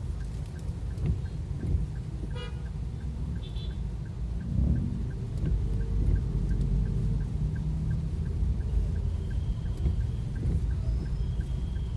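Road traffic in heavy rain: a steady low rumble of engines, tyres and rain, with vehicle horns sounding briefly, most plainly a few seconds in. A faint, fast, even ticking runs underneath.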